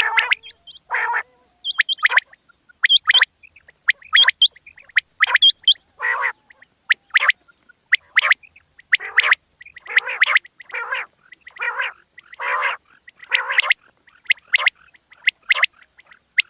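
Quail calling over and over in quick, short calls, about two a second. Some calls are clear and high-pitched, others rougher and raspier.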